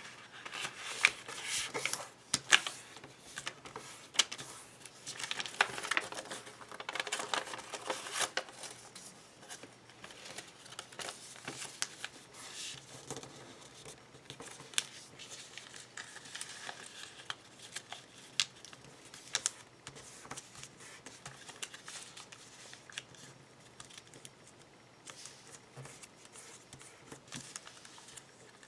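A sheet of origami paper being folded and creased by hand: rustling and crinkling, with short sharp snaps as creases are pressed. It is busiest in the first several seconds, then settles into sparser taps and rustles.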